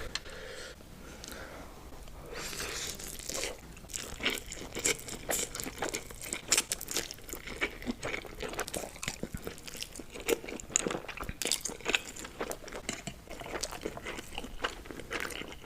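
Close-miked ASMR eating of spicy noodles: continuous chewing and biting, with many irregular sharp, wet clicks and crunches.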